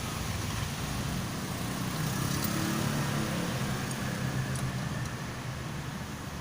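A motor vehicle engine's low hum that grows a little louder in the middle and eases off near the end, with a few faint ticks.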